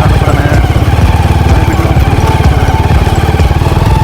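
An old motorcycle's engine running steadily while riding, carrying three riders up a rough mountain road.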